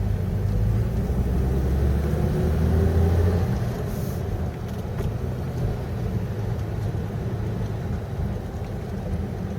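Rover P4 'Cyclops' straight-six engine running as the car moves slowly, with road noise, heard from inside the cabin; the engine note eases off about three and a half seconds in.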